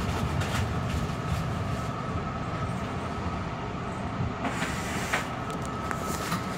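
Long Island Rail Road M3 electric train car rolling and slowing into a station, heard from inside: a steady low rumble of wheels on rail with a few sharp clicks, and a steady high whine that grows stronger about five seconds in.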